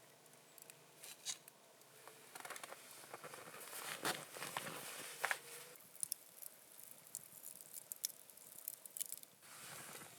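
Close handling noises: rustling and scraping with many scattered light clicks and taps, busiest in the middle stretch.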